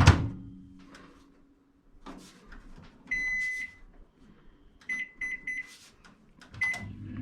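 Microwave oven being set and started: a knock as the door shuts, a long keypad beep, then a run of short beeps, and near the end the oven starts running with a hum that rises as it comes up to speed.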